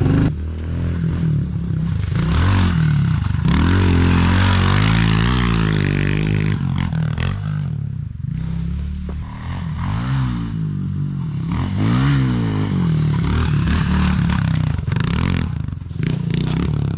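Pit bike engine revving under way, its pitch rising and falling several times as the throttle is worked and gears change, with a rushing hiss of wind and road noise over it.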